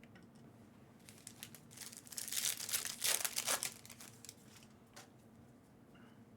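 A foil trading-card pack wrapper crinkling and tearing as it is opened, mostly in a burst of rustling a couple of seconds in, with a few light clicks of card handling around it.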